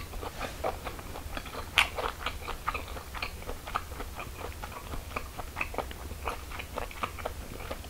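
Close-miked chewing of a grilled Vienna sausage: soft wet smacks and irregular small clicks of the mouth, with one sharper click about two seconds in.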